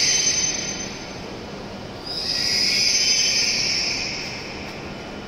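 Hissing from a stopped E7 series Shinkansen train at the platform. The hiss fades within the first second, then starts again abruptly about two seconds in and dies away over the next two seconds, like air being let out after the stop.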